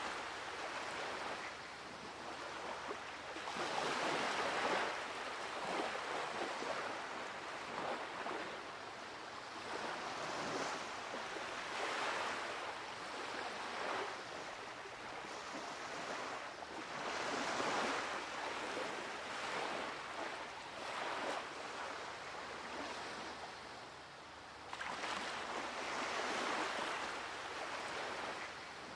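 Ocean waves surging onto a shore, each wave swelling and then washing away, about every six or seven seconds.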